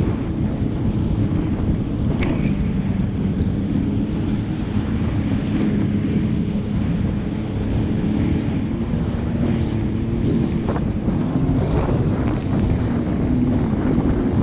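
Jet ski engine running steadily under way, its drone wavering a little in pitch, buried in heavy wind buffeting on the microphone.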